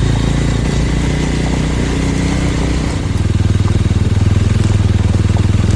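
Suzuki 250 motorcycle engine running steadily under way, with wind noise over the rider's microphone; the engine grows louder from about three seconds in as it pulls harder.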